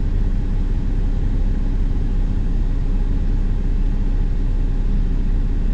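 Steady low rumble of a hotshot pickup truck running, heard from inside the cab.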